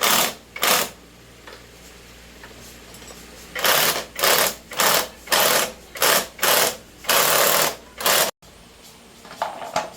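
Power impact wrench rattling in short bursts on the bolts of a motorbike engine: two near the start, then a quick run of seven or eight from about three and a half seconds in, one held longer near the end.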